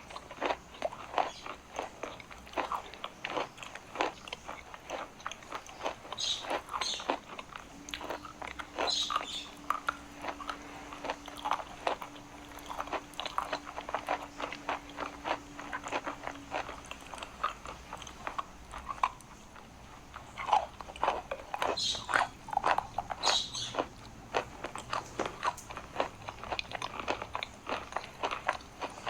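Pieces of edible chalk being bitten and crunched close to the microphone: a steady run of small, dry, crisp cracks, with a few sharper bites here and there.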